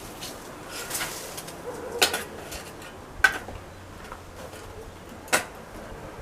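A shovel striking the ground three times while digging, each strike sharp and one to two seconds apart, with a bird cooing faintly.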